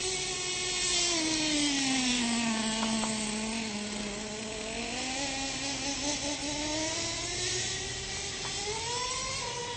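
Radio-controlled monster truck's motor running, its pitch sliding down over the first few seconds, holding low for a while, then climbing again near the end, with a hiss over it.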